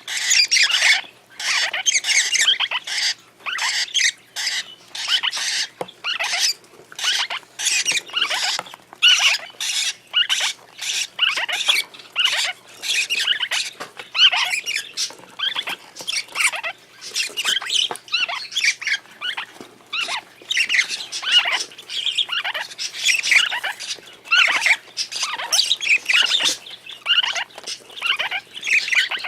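Parrot chicks calling in harsh, rasping runs, several calls a second with short pauses between bursts.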